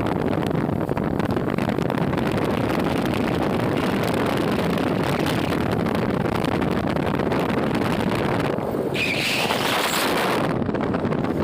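Wind rushing over the microphone on a moving Royal Enfield Classic 350, with its single-cylinder engine running underneath. About nine seconds in, a brief higher-pitched noise rises over it for a second or so.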